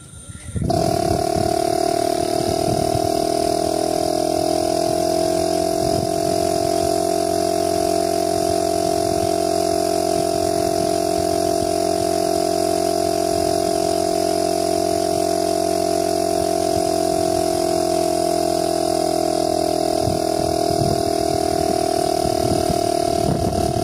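Refrigerator compressor switching on abruptly and running with a steady, loud hum made of several fixed tones.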